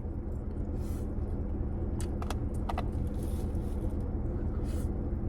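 Steady low rumble of a running car engine heard from inside the vehicle, with a few light clicks and soft rustles about two to three seconds in.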